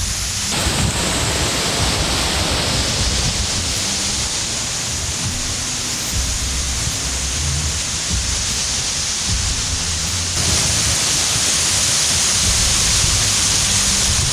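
Steady rushing roar of a waterfall close to the microphone, with rumbling underneath. The rush grows brighter and louder about half a second in, and again about ten seconds in.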